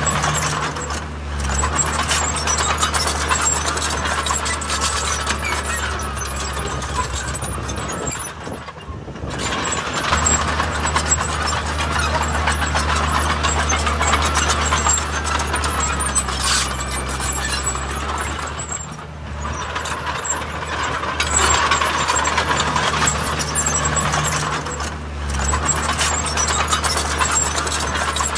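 Heavy diesel earthmoving machinery running under load: a steady low engine drone with dense metallic clatter over it, easing off briefly several times.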